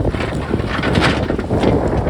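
Strong wind buffeting the microphone in a loud, gusty rumble, with a few short clatters of rock.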